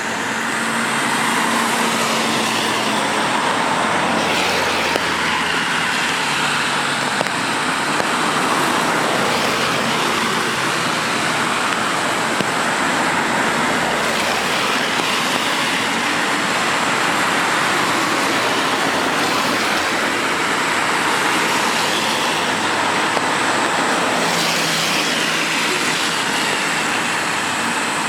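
Rain and road traffic on a wet street: a steady hiss of rain and tyres on wet tarmac, with the low hum of passing vehicle engines near the start and again near the end.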